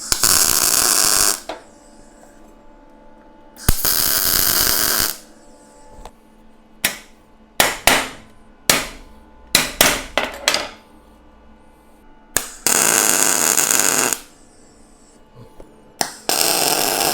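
Four tack welds with an electric arc welder on steel plate, each a steady crackling hiss of about a second and a half. In the middle, a quick run of sharp knocks.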